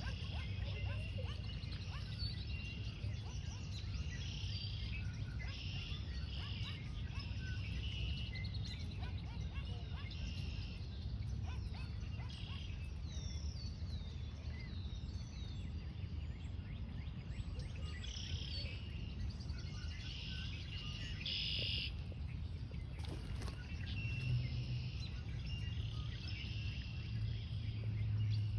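Birds chirping, many short high calls and quick falling notes repeating, over a steady low rumble.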